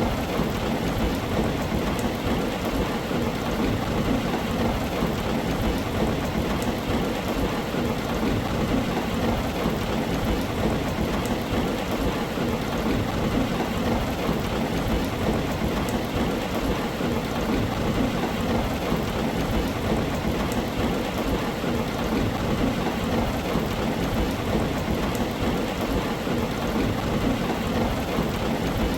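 Steady, even rain falling on a tin roof.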